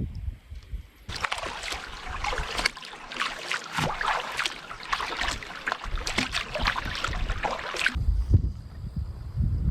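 Water rushing and splashing around a canoe, a dense hiss that starts abruptly about a second in and cuts off near the end, with wind buffeting the microphone before and after.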